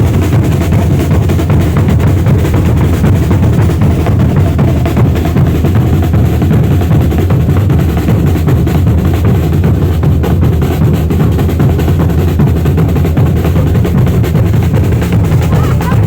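Loud, drum-heavy music from a festival band, with drums beating steadily throughout.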